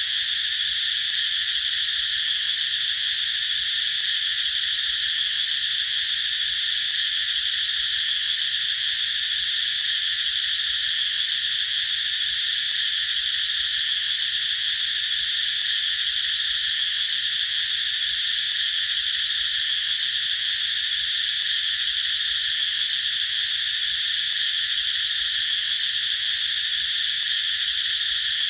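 Cicadas singing in a steady, unbroken high-pitched buzz.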